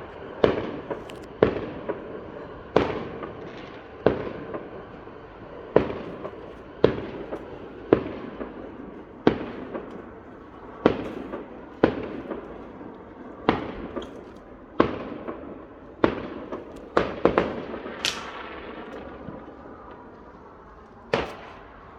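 Fireworks going off: a steady run of sharp bangs at about one a second, each dying away in a short echo, with a louder bang near the end.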